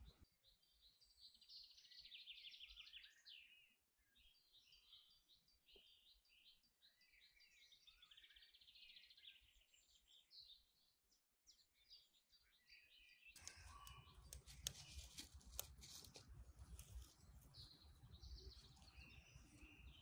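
Faint birdsong: small birds chirping in quick repeated phrases. About two-thirds of the way in, a soft crackling, rustling noise with small clicks joins them.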